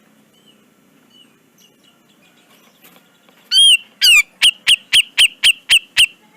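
Cucak jenggot (grey-cheeked bulbul) calling: a loud note about midway, then a rapid run of about eight sharp, downward-slurred notes, roughly four a second, that stops shortly before the end.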